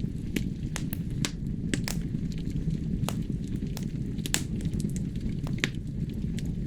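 Wood fire burning in a fireplace: a steady low rumble of flame with irregular crackles and sharp pops from the burning logs, two louder snaps a little past halfway.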